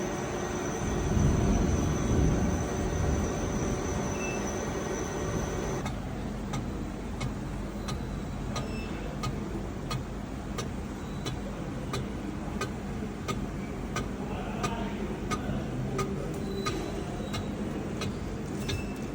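A machine-shop machine runs with a steady hum and whine, then stops about six seconds in. A light, regular ticking goes on after it, about one and a half ticks a second.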